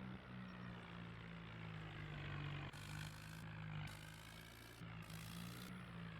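Mahindra Arjun tractor's diesel engine running steadily, with a few bursts of hiss over it from about three seconds in.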